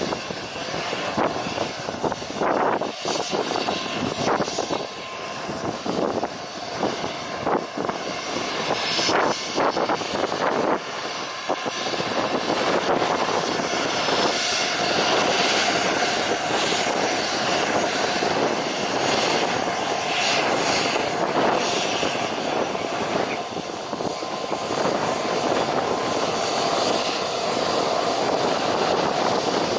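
Aircraft engine noise: a dense, steady rush with a faint steady whine, broken by short crackling surges in the first part and growing steadier and a little louder from about twelve seconds in.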